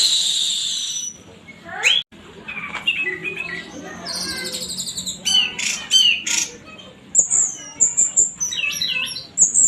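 Orange-headed thrush singing a fast, varied song: a harsh rasping note at the start, then rising whistles, quick runs of repeated notes and high clear whistles.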